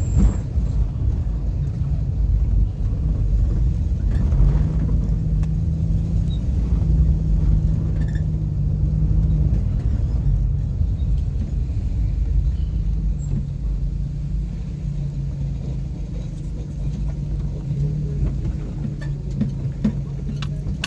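A car driving, with a steady low rumble from the road and an engine hum that shifts up and down in pitch several times.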